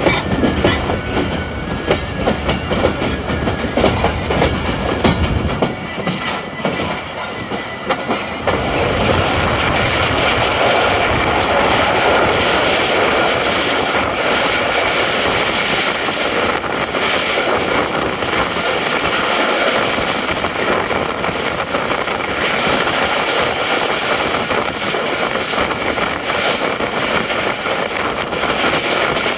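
Passenger train running at speed, its wheels clicking over the rail joints; after about eight seconds the clicks merge into a louder, steady rushing rumble.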